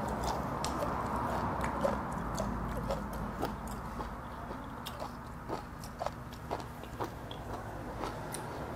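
Close-up chewing of a mouthful of food, with many small wet clicks and smacks scattered through, over a steady low background hum.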